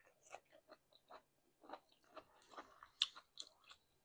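A person chewing a mouthful of food at close range, faint, with many soft wet mouth clicks and smacks; a sharper click comes about three seconds in.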